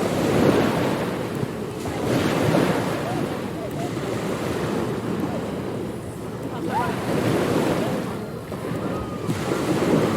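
Ocean surf breaking and washing onto a beach, swelling and easing every few seconds, with wind.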